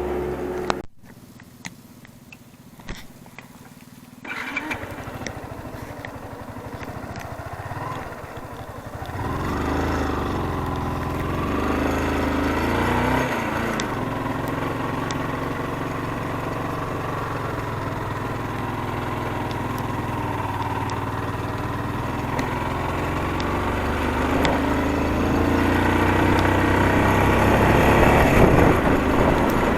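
Motorcycle engine running as the bike is ridden, its pitch rising and falling; it follows a quieter stretch of a few seconds with a few clicks near the start.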